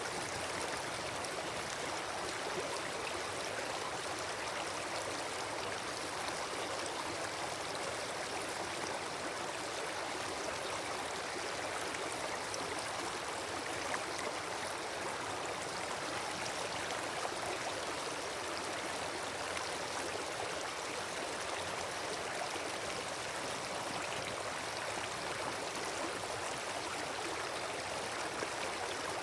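Wood campfire burning: a steady hiss of flame with dense fine crackling and an occasional louder pop, one about halfway through.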